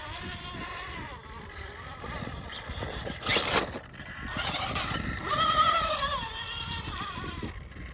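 RC rock crawler's electric motor and geartrain whining, the pitch rising and falling with the throttle as it crawls over rock, with a short clatter about three seconds in.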